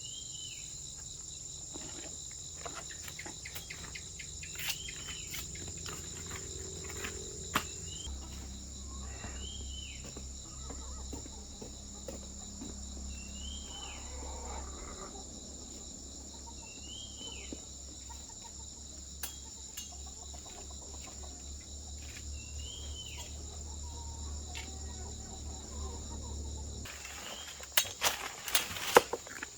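Steady high-pitched insect chorus, with a short chirp recurring about every three seconds and a few sharp clicks near the end.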